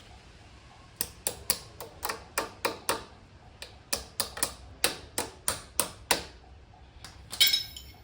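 A run of sharp clicks or taps, about three to four a second, with a short break partway through. Near the end comes a louder metallic clatter with a brief ringing.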